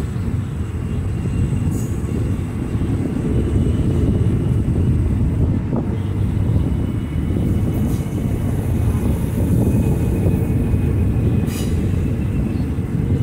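A local passenger train rolling out on its rails, heard from an open carriage window: a steady low rumble with a few faint sharp ticks, getting slightly louder a few seconds in.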